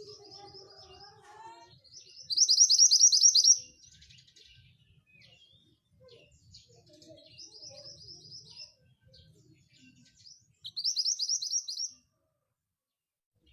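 Branjangan (Horsfield's bush lark) singing in short phrases of rapid, high repeated notes. Two phrases are loud and the ones between are softer, and the song stops dead for the last second or so.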